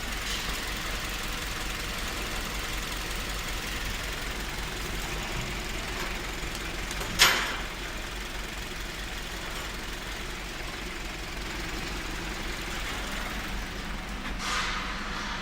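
Toyota Yaris 1.3-litre petrol engine idling steadily, with one sharp click about seven seconds in and a brief hiss near the end.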